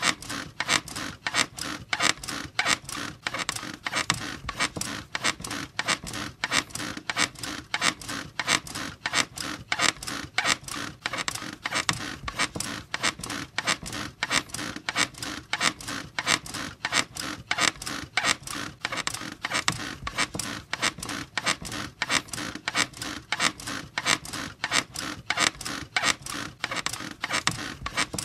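Bed squeaking rhythmically, a run of evenly repeated creaks that carries on steadily without a break.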